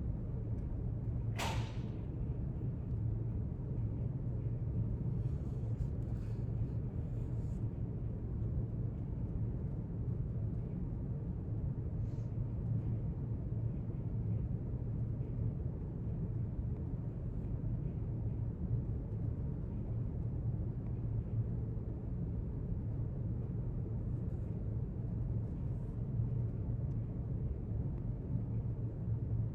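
Steady low hum of library room ambience, with a single brief sharp click about a second and a half in and a few faint ticks a few seconds later.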